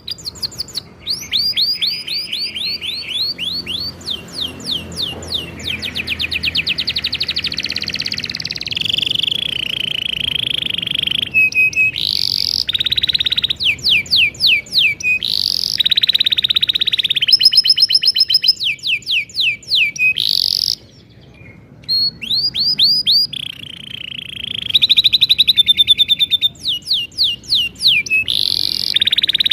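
Canary singing a long, continuous rolling song. It is made of fast runs of repeated notes: quick falling whistles, buzzy trills and rapid chirps, each run a different phrase. There is a short break about two-thirds of the way through.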